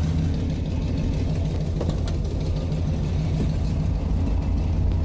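An old plow truck's engine idling steadily, warmed up and running at a low even idle.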